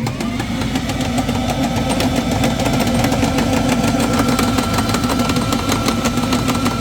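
Twin supercharged 392 Hemi V8s of an alcohol-burning twin-engine dragster, just caught on a cold start and running loud and steady with a rapid crackle of firing pulses. A steady higher whine joins about four seconds in.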